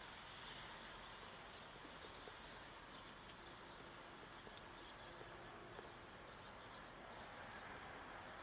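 Near silence: a faint steady hiss with a few soft ticks scattered through it.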